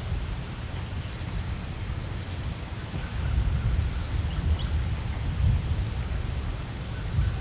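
Wind rumbling on the microphone, with small songbirds chirping in short, high, repeated notes over it.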